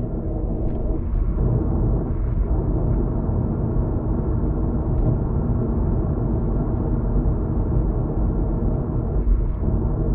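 Steady road noise inside a car cruising on a highway: a low, even rumble of tyres and engine.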